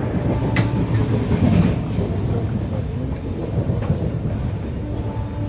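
Passenger train coach running on the rails: a steady low rumble, with a few sharp clicks and knocks.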